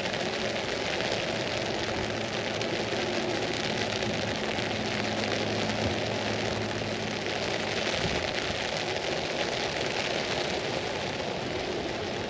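Rain falling steadily on an umbrella, an even hiss, with a low steady hum underneath for about the first seven seconds.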